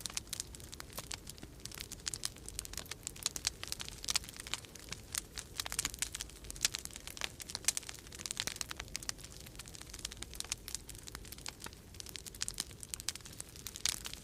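Wood fire crackling in a fireplace: a dense run of irregular small pops and snaps, over a low steady rumble.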